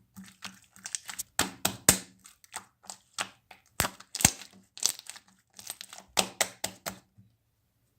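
Slightly melted Elmer's glue slime being squeezed and stretched by hand, giving a dense, irregular run of sharp clicks and crackling pops from trapped air. It stops about seven seconds in.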